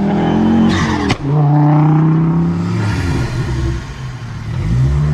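Car engine revving hard under acceleration. About a second in its pitch drops, with a sharp crack, and it then holds a steady high note before easing off.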